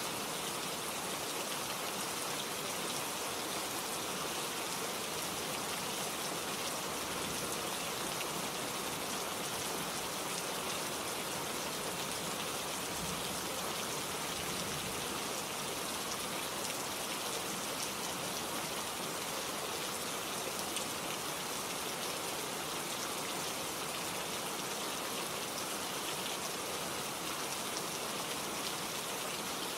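Steady rain falling, a dense even hiss of many drops spattering on surfaces.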